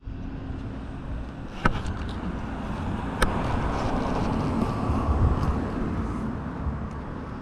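Motorcycle running as it is ridden, its engine blended with a steady rush of wind noise, with two sharp clicks about a second and a half and three seconds in.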